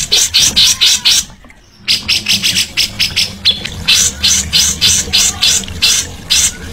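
A songbird calling in a rapid series of short harsh notes, about five a second, broken by a brief pause about a second and a half in, over a low steady hum.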